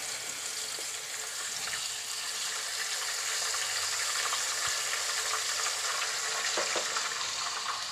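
Garlic and ginger paste frying in hot oil in a non-stick wok: a steady sizzling, crackling hiss, with light scrapes of a silicone spatula as the paste is stirred in.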